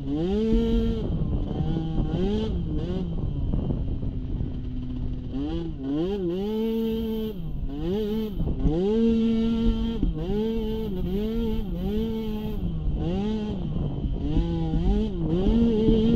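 Small youth ATV engine racing over rough ground, the throttle opened and closed over and over: the pitch climbs, holds briefly and falls about a dozen times. Near the end it holds at high revs.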